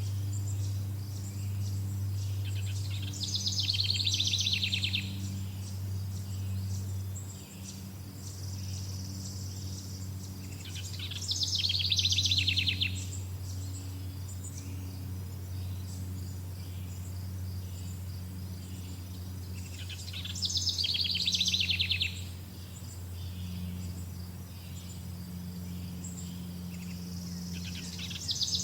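A songbird singing a fast trilled phrase of about two seconds, three times, roughly every eight or nine seconds. Under it runs a steady high insect chorus and a low, steady hum.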